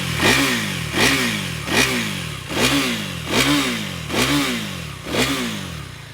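KTM Duke 390 Gen 3's single-cylinder engine blipped in neutral through its underbelly exhaust: about seven quick revs in a row, each a sharp rise in pitch falling back, growing gradually softer toward the end.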